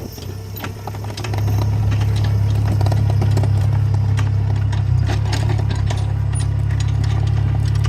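Small hydraulic excavator's diesel engine running, growing louder about a second in and holding a steady drone, with scattered clicks and rattles over it.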